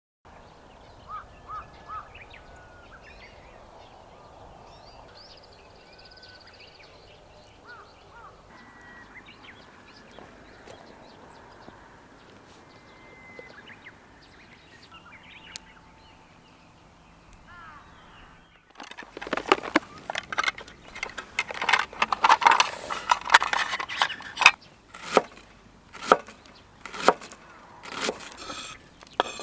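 Quiet outdoor background with a few birds calling. About 19 seconds in, loud chopping starts: a fast run of knocks, then slower single chops about two a second.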